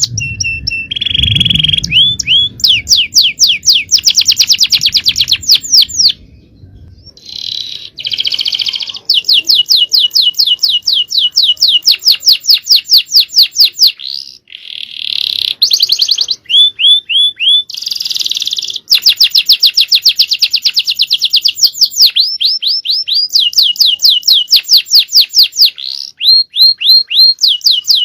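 Male domestic canary singing a loud, fast song of long trills: rapid runs of repeated notes, each run switching to a new note pattern every second or two, with brief pauses about six and fourteen seconds in.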